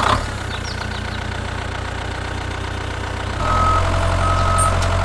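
A miniature tractor's engine sound idling steadily, growing louder about three and a half seconds in as the machine works. A reversing beeper then starts, with two short high beeps near the end.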